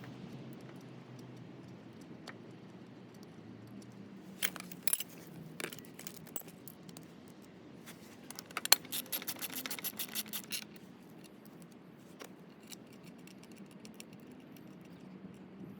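Light metallic clinking and rattling, a few clicks about four to six seconds in and a quick run of them around the middle, over a faint steady low hum.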